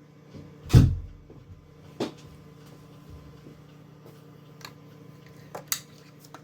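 A heavy thump about a second in, then a sharper knock and a few light clicks over a steady low hum.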